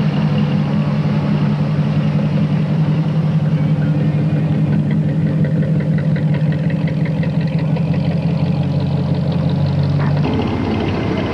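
A car engine idling steadily close by, a low even hum that stops abruptly about ten seconds in.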